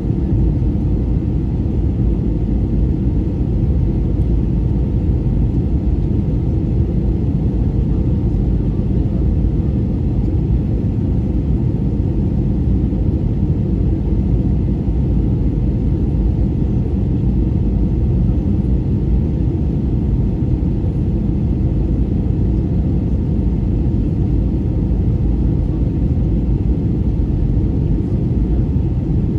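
Airliner cabin noise in flight, heard from inside the cabin: a steady low rumble with no changes.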